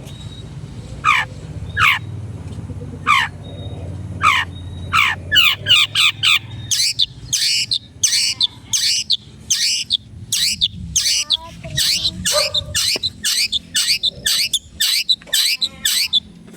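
Long-tailed shrike (cendet) calling in full voice: sharp, downward-sweeping calls about one a second at first, then coming in quick runs of several a second from about five seconds in.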